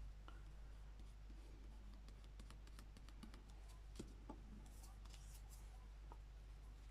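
Near silence with a low hum, broken by faint ticks, two small taps about four seconds in, and light rustles of paper being handled and pressed down.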